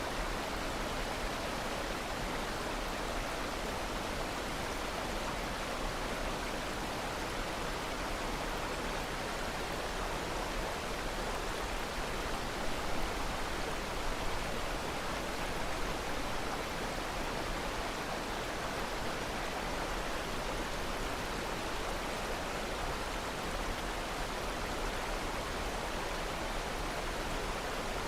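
Steady rushing of flowing water, like a stream or waterfall, an even hiss with a couple of slight swells near the middle.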